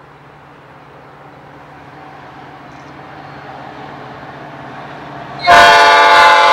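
An approaching train growing steadily louder, then a locomotive air horn sounding suddenly and loudly about five and a half seconds in, a chord of several tones held to the end.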